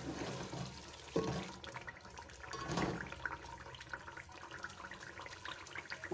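Cubed potatoes and onion-tomato masala sizzling in oil in an aluminium pot, with a steady frying hiss. A slotted spatula stirs and scrapes a couple of times in the first few seconds.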